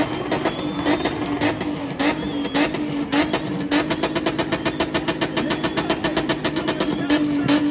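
Car engine revving hard, with a rapid stutter of sharp pulses that speed up over the first few seconds over a held engine note.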